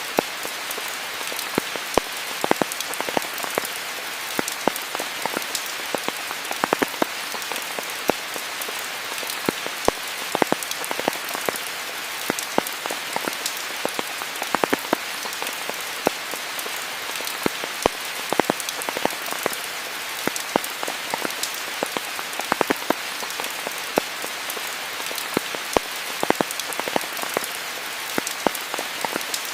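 Steady rain, a continuous hiss with frequent sharp, close drop impacts scattered through it.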